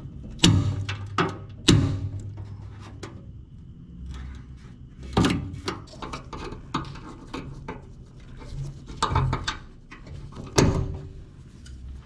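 Hand tools and loose metal parts clinking and knocking as an old Lincoln AC180S arc welder is taken apart: a handful of sharp knocks with short ringing tails, a few seconds apart, between smaller clicks.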